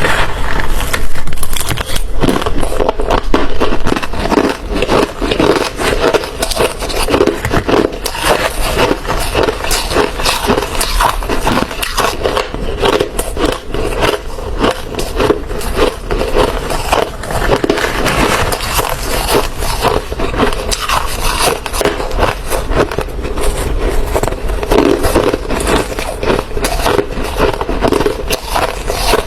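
Hard ice being bitten and chewed close to the microphone: a continuous run of loud, rapid crunches and cracks.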